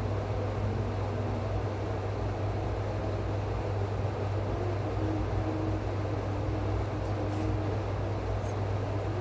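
Steady mechanical hum with an even hiss, unchanging throughout, with a strong low drone.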